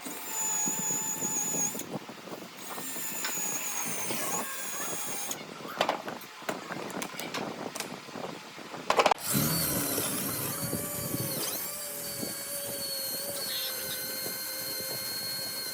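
Workshop power tools running in a series of short clips, each with a steady high whine, with knocks of wood being worked in between.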